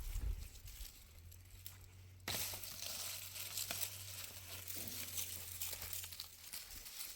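Rustling and crackling handling noise, scattered small clicks and crinkles over a faint hiss and a low steady hum; the hiss jumps up suddenly about two seconds in.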